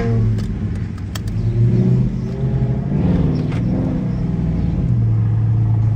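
Dodge Charger's Hemi V8 running at low revs, heard from inside the cabin while driving slowly: a steady low drone with small rises and dips in pitch.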